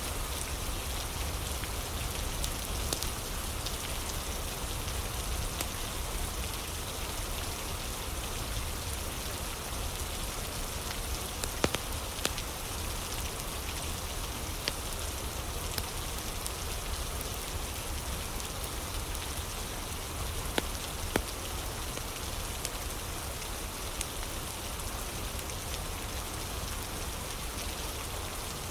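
Steady rain ambience with a crackling fire: an even wash of rain, with a few sharp pops standing out, two near the middle and two more later.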